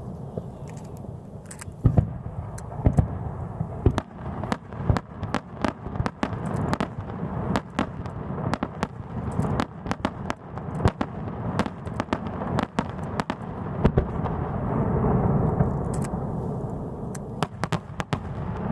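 A fireworks display: a fast, irregular string of sharp bangs and crackling pops, thickest in the middle, over a low rumble.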